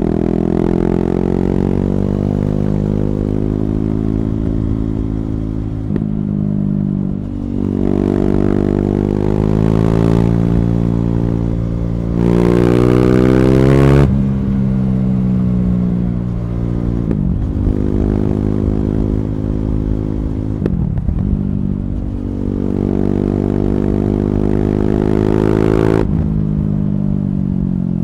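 KTM Duke 390's single-cylinder engine through an Akrapovic slip-on exhaust with a decat pipe, ridden hard: revs climb and drop through several gear changes. A loud full-throttle pull about halfway through cuts off sharply when the throttle closes, and the revs then fall away on engine braking. Another pull ends with a sudden throttle close near the end.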